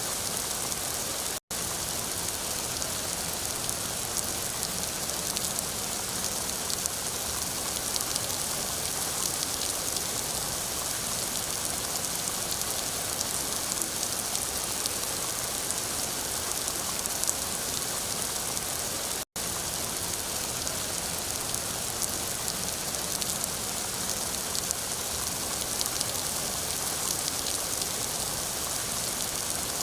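Steady rain falling, a dense even hiss full of small drop patters. The sound cuts out for an instant twice.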